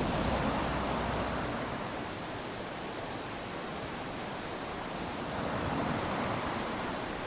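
Small waves lapping onto a sandy beach: a steady wash of surf that swells twice, once at the start and again about six seconds in.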